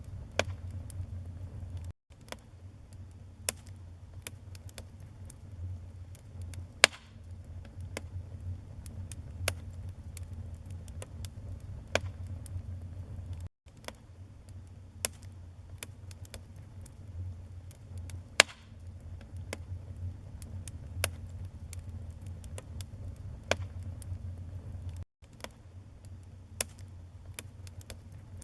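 Burning firewood crackling, with irregular sharp pops over a steady low rumble of the flames; a few pops stand out much louder than the rest. The sound cuts out for an instant three times.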